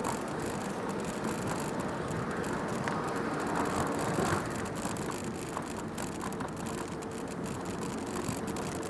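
Bicycle ridden along a canal towpath: steady tyre rumble with light rattles and clicks, a little louder about halfway through.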